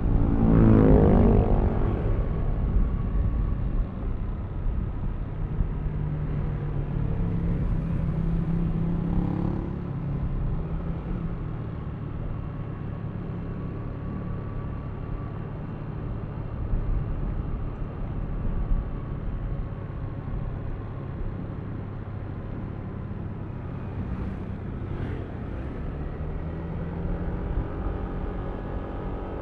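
Yamaha Aerox V3 scooter's 155 cc single-cylinder engine running under way, with wind rush. It is loudest in the first two seconds, settles to a steadier note, and its pitch climbs again near the end.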